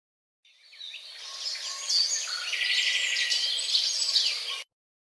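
Several small birds chirping, with a fast trill, over a steady outdoor hiss. The sound fades in under a second in and cuts off abruptly near the end.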